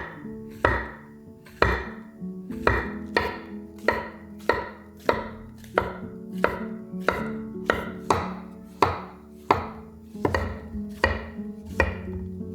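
Knife chopping on a cutting board in a steady rhythm, about three strokes every two seconds, over soft background music.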